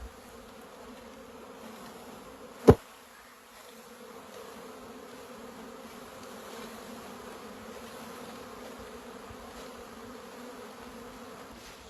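Mass of honeybees buzzing in a steady hum as a package of bees is dumped into a new hive, with one sharp knock a little under three seconds in.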